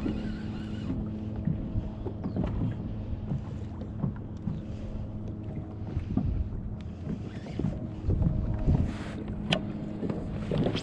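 Kayak on the ocean: a steady low rumble of water and hull, with scattered knocks and creaks from the boat and gear and a busier cluster of knocks near the end.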